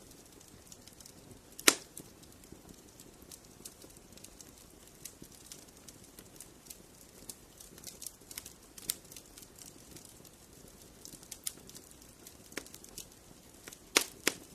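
Wood fire in a fireplace crackling, irregular small snaps over a faint low rush of flames, with a loud pop about two seconds in and a couple more near the end.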